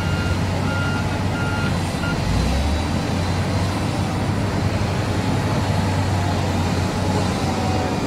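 Heavy diesel construction machinery running steadily, with a reversing alarm beeping about twice a second for the first two seconds.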